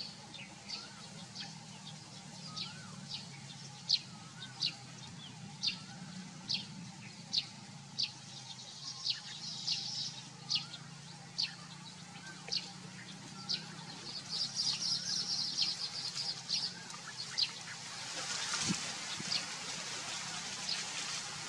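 A small bird repeats a short, sharp high note about every two-thirds of a second, with fainter calls of other birds behind it. A steady low hum runs underneath, and a hiss rises near the end.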